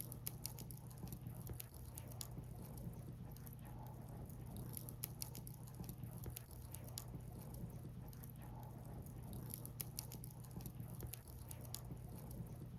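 Wood fire burning, crackling with irregular sharp pops and snaps over a steady low rumble.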